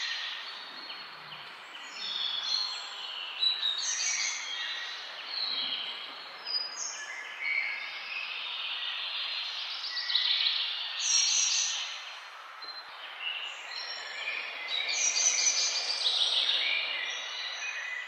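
Many small birds chirping and calling over one another in short, high-pitched notes, over steady outdoor background noise.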